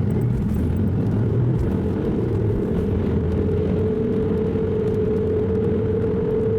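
Car running, heard from inside: a steady low rumble of engine and road noise, with a steady hum that grows louder from about halfway through.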